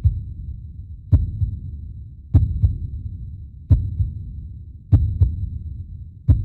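Heartbeat sound effect: slow, low double beats, a strong thump followed by a weaker one, repeating about every second and a quarter over a steady low rumble.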